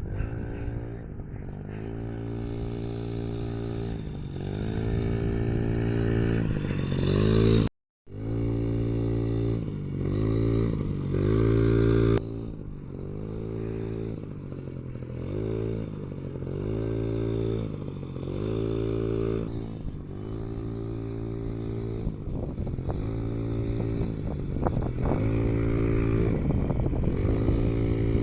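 Yamaha PW50 minibike's small two-stroke single-cylinder engine, revved up and down over and over as it is ridden, its pitch rising and falling every second or two. The sound drops out for a split second about eight seconds in.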